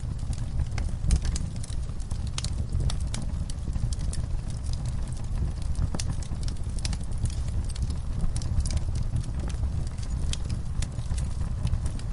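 Wood fire burning in a fireplace: frequent irregular crackles and pops over a steady low rumble of flames.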